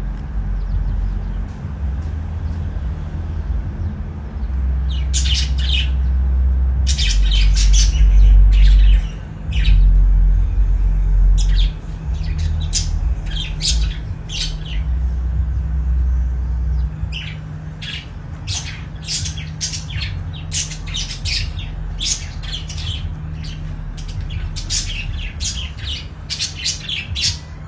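Birds chirping with many short, sharp calls in quick runs, busiest near the end, over a steady low rumble.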